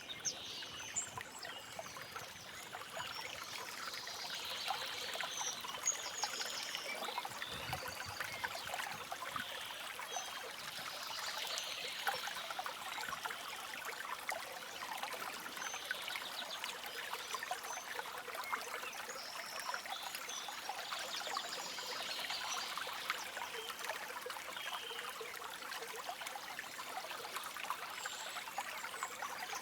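A small stream trickling and babbling steadily over stones, with faint high bird chirps now and then.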